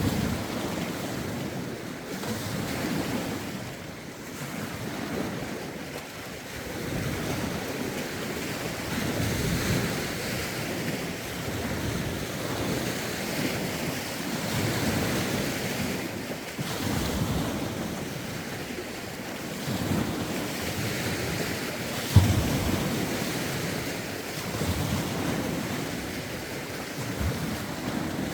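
Waves on a lake coming in irregular surges every second or two, with strong wind buffeting the phone's microphone. A single brief thump about three-quarters of the way through.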